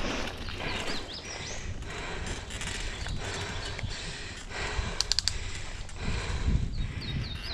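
Mountain bike rolling over a rough dirt trail: tyre noise with the bike rattling and knocking over bumps, a few short high squeaks, and a quick run of sharp clicks about five seconds in.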